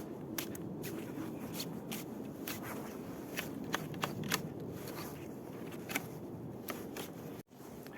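Footsteps crunching in snow, a steady rustle with irregular sharp clicks, cutting off suddenly near the end.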